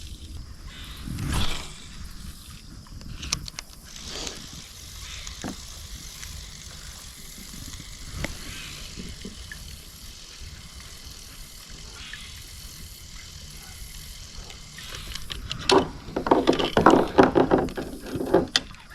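Fishing reel being cranked as a crankbait is retrieved, its gears clicking. About three quarters of the way in the reel noise turns louder and rapid.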